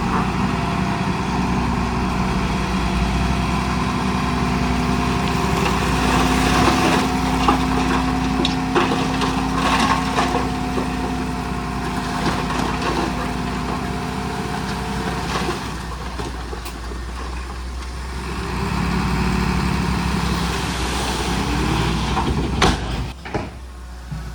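Heavy diesel engine of earthmoving machinery running at a steady pitch, with scattered knocks and clatter partway through and a sharp knock near the end.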